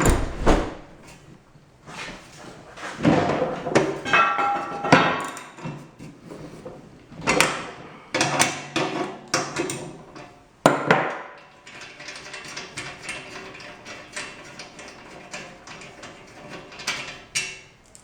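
Metal knocks and clinks of hand tools against the steel parts of a Rubi TS 50 snap tile cutter during disassembly, several ringing briefly, with a run of small rattling clicks in the later part.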